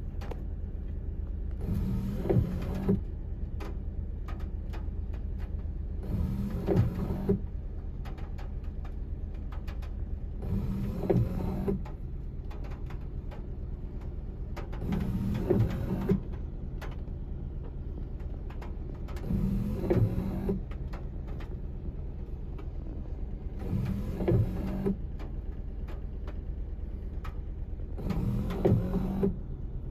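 Car windshield wipers on an intermittent setting, sweeping across and back about every four and a half seconds, each pass a little over a second long. A steady low hum runs under them.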